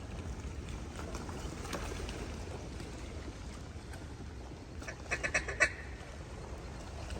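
Duck quacking: a quick run of about six loud quacks about five seconds in, with fainter quacks a second or two in, over a low steady background rumble.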